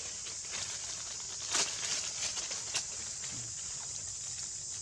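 Steady high-pitched insect chorus, with scattered crackles and taps layered over it; the loudest come about a second and a half in and again near three seconds.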